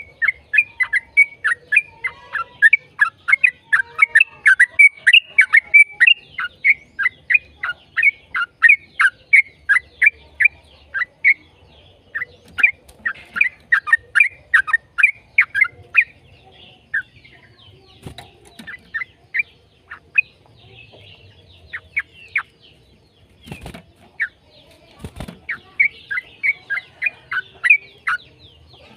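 Yellow-vented bulbul (trucukan) singing its rapid chattering song: long runs of short, downward-slurred notes at about five a second, broken by short pauses. Two brief knocks sound in a pause about two-thirds of the way through.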